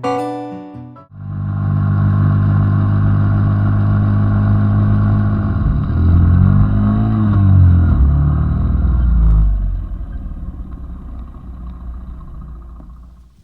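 A motor vehicle engine running steadily. Its pitch swells up and back down, loudest about six to eight seconds in, then it fades away over the last few seconds.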